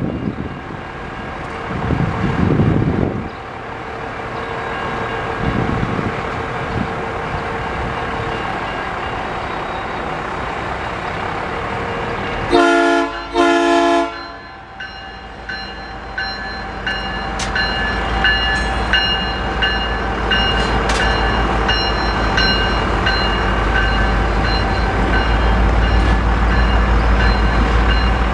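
Diesel freight locomotive approaching a grade crossing. Its horn sounds two short blasts about halfway through. The train then rolls through the crossing, and the rumble of wheels on the rails grows louder, with sharp clicks from the rails.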